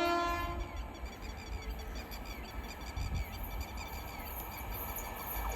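A train horn's held note cuts off about half a second in. Then insects, crickets by their sound, chirp faintly and steadily over a low rumble.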